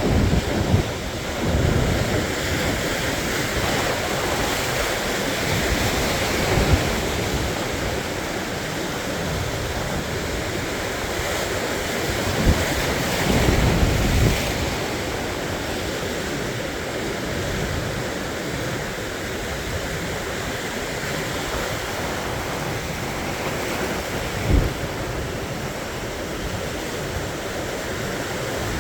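Sea surf washing steadily onto the shore, with wind buffeting the microphone in occasional low gusts.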